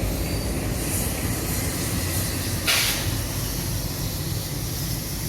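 Indian Railways passenger train rumbling steadily, with one short, sharp hiss of air a little past halfway.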